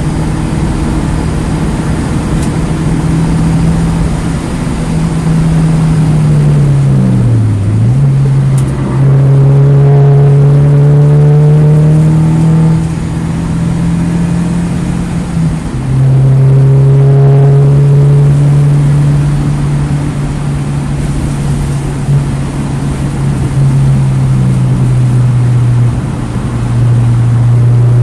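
2009 Mini Cooper S's turbocharged 1.6-litre four-cylinder engine running hard at track pace. The revs fall away about seven seconds in and climb again, then drop sharply twice, near the middle and near the end, as gears change.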